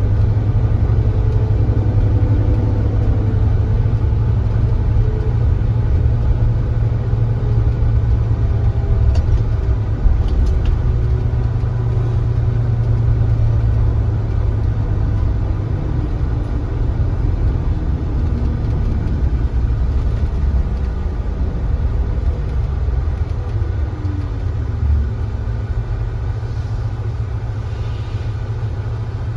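Kia Granbird Sunshine coach's diesel engine running under way: a loud, steady low rumble, its note dropping about two-thirds of the way in and the sound easing off slightly toward the end.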